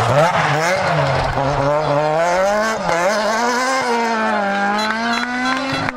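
Renault Clio R3 rally car's naturally aspirated four-cylinder engine revving hard at full throttle. The pitch drops and climbs again several times with throttle lifts and gear changes, then rises steadily towards the end.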